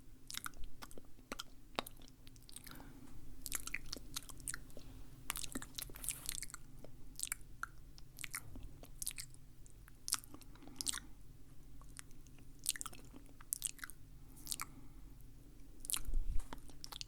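Close-miked ASMR mouth sounds: irregular wet clicks, smacks and chewing-like snaps, several a second, over a faint steady hum.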